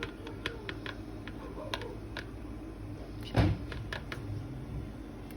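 Light clicks and knocks of a spoon against glass jars as hot marinated honey mushrooms are spooned in, with one louder knock about three and a half seconds in.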